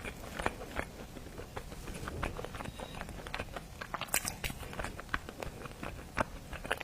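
Close-miked eating of seafood: irregular crisp clicks and crunches of chewing and biting, a few sharper cracks among them.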